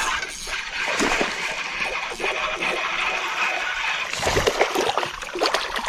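Water splashing in a creek as a hooked smallmouth bass thrashes at the surface on a topwater lure, with several sharp splashes, the biggest about four seconds in and near the end.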